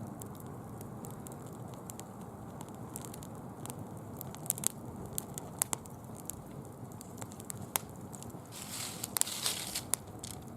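Wood-and-leaf bonfire crackling, with scattered sharp pops over a steady low hiss. Near the end comes a brief spell of dense, rustling crackle.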